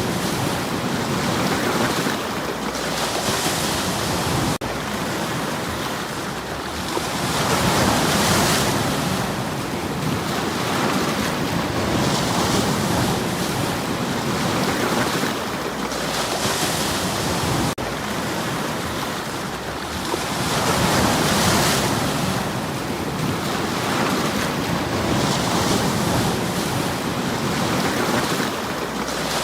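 Sea waves washing against stones, a steady rush of surf that swells and eases every four to five seconds.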